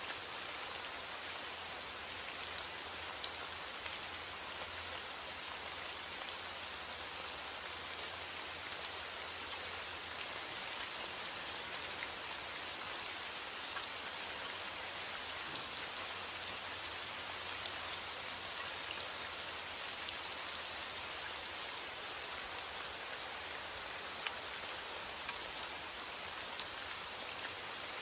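Steady heavy rain falling, an even hiss with scattered sharp ticks of individual drops striking a surface.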